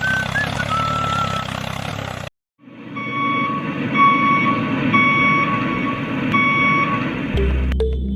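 Reversing beeper sounding in evenly spaced beeps, about one a second, over steady engine-like noise, after an abrupt cut. Electronic music comes in near the end.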